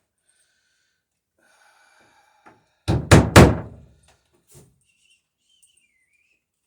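Two sharp hammer blows about half a second apart, about three seconds in, as a plank rivet is struck.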